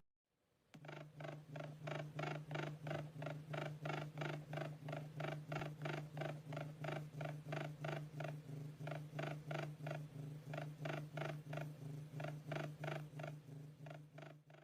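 Sonified recording of a star: a faint low hum with a buzzy overtone, pulsing evenly about three times a second.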